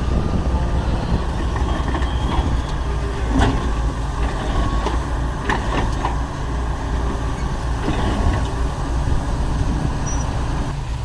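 Heavy diesel engines of earthmoving machinery running steadily, with a few sharp metallic clanks and knocks.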